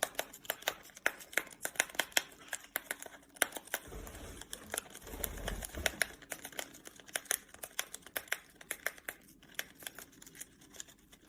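A parrot tearing open a tea packet with its beak: a long run of quick, irregular crinkles, snips and rips of paper.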